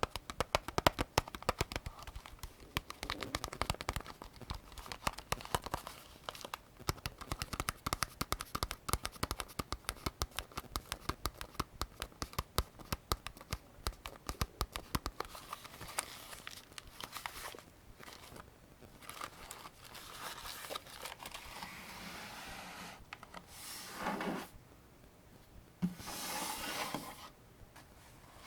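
AK-47 75-round drum magazine being handled during loading: a fast run of small clicks for about the first half, then scraping and rustling.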